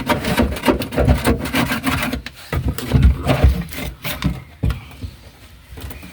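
Irregular scraping and rubbing strokes, with knocks, as stuck sound-deadening is worked off a car's metal floor pan. It dies down near the end.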